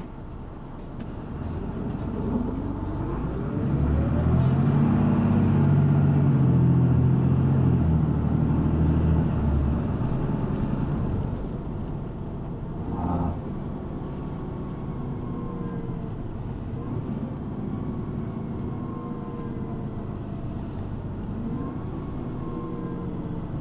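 City bus's diesel engine heard from inside the cabin, rising in pitch as the bus accelerates and loudest for several seconds, then running more quietly and steadily with a brief knock partway through.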